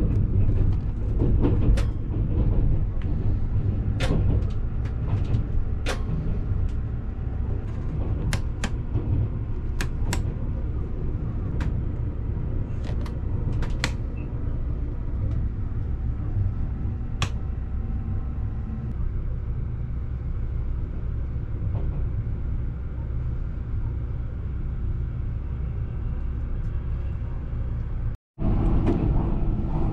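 Steady low rumble of the Tobu SPACIA electric train heard inside a private compartment, with a scattering of short, light clicks as the compartment's control-panel switch and knobs are worked. The sound drops out for an instant near the end.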